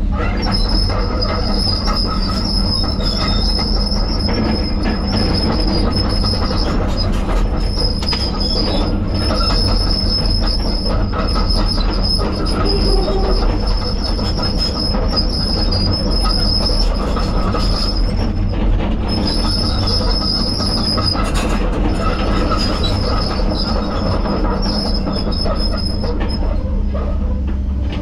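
ASV RT-120 compact track loader running a Shearex forestry mulcher head under load, its engine droning steadily beneath a high steady whine from the mulcher that breaks off briefly twice.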